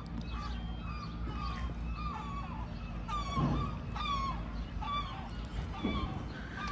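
Birds calling: a quick run of short, overlapping squawks, several a second, over a steady low background rumble.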